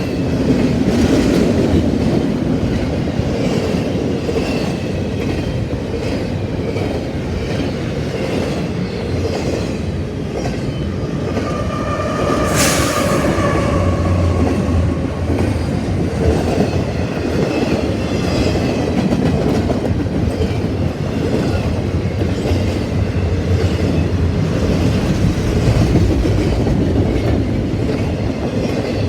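Freight train cars rolling past, wheels clicking over the rail joints, with a steady rumble and faint wheel squeal. A brief sharp, high sound comes about halfway through.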